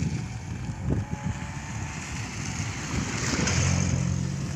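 Wind blowing over the microphone, swelling about three seconds in, with a low steady hum near the end.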